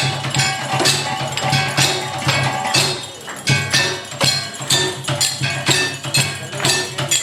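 Live percussive music: quick, regular strikes with a ringing, metallic edge over a steady low drone.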